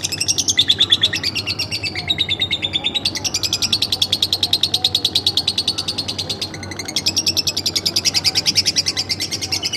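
Pet lovebird singing a long, fast run of high chirps, with one short break about two thirds of the way through.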